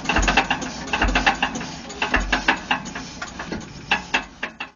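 Deutz diesel engine of a narrow-gauge field-railway locomotive running slowly, its deep firing thumps coming further apart and stopping about two seconds in, as if the engine is running down. Mechanical clicking and clatter go on and fade, then the sound cuts off abruptly at the end.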